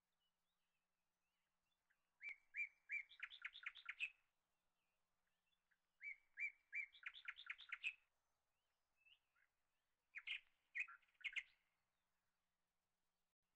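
A small bird singing: three short phrases of high chirps, the first two alike, a few spaced notes running into a quick trill.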